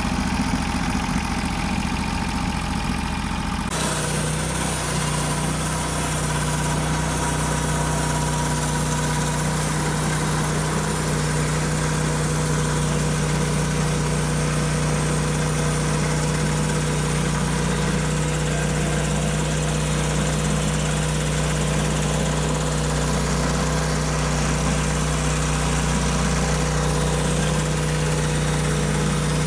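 Norwood HD36 portable bandsaw mill's engine running steadily. About four seconds in, the sound changes abruptly to a fuller running with a steady hiss over it, and then holds even.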